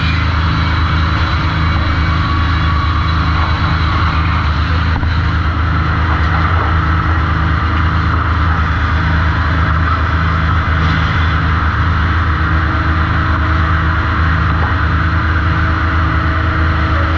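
Sawmill machinery running steadily: a low, even drone with a regular pulsing underneath and a hiss on top.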